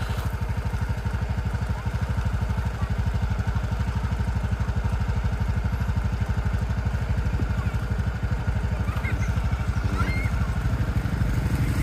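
Small motorbike engine running steadily while riding, with an even low pulsing throb.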